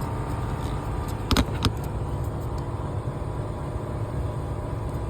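A steady low rumble of a running engine, with two sharp clicks about a second and a half in.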